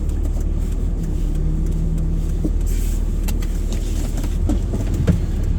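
Four-wheel-drive vehicle driving, heard from inside the cab: a steady low engine and road rumble with a few small knocks.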